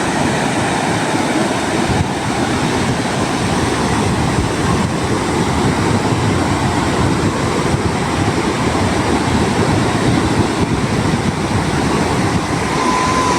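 Ocean surf breaking on a beach, a loud steady rushing noise with no pause.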